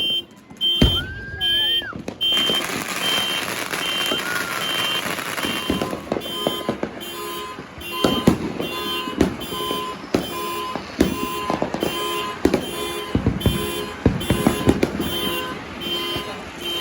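A car alarm beeps in a repeating pattern while fireworks go off. A whistling firework rises about a second in, a crackling hiss follows, then a run of bangs and pops.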